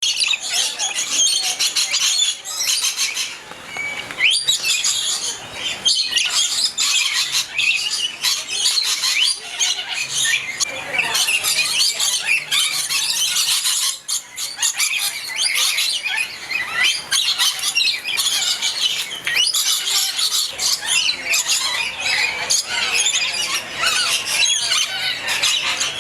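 Several pet parrots chattering and squawking without a break, a dense mix of many short, high calls and squeaks.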